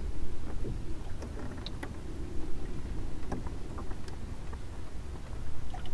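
Small sailing dinghy under way: water rushing and lapping along the hull, with wind rumbling on the microphone and scattered small knocks and ticks.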